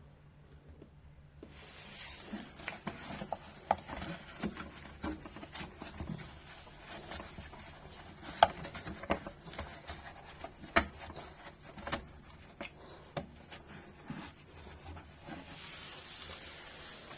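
Hands scrubbing and wiping a refrigerator drip tray: irregular rubbing with many scattered clicks and knocks, and a short hiss near the end.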